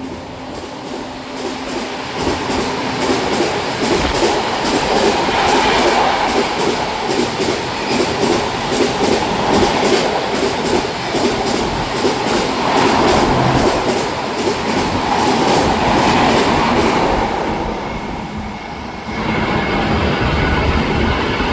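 A train running past at speed, its wheels clattering rapidly over the rail joints in a loud, steady rush that eases briefly near the end. A train horn starts to sound just before the end.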